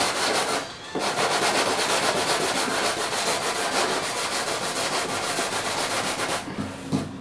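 Sandpaper rubbed by hand over a surfboard's surface around a ding, in quick back-and-forth strokes that smooth the damaged area before filling. There is a brief pause about a second in, and the sanding stops near the end.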